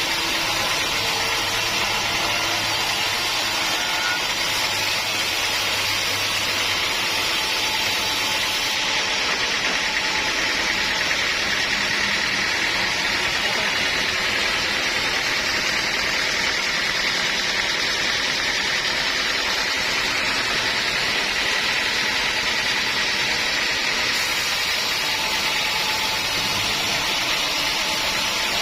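Sawmill machinery running steadily, an unbroken mechanical noise with no separate knocks or pauses.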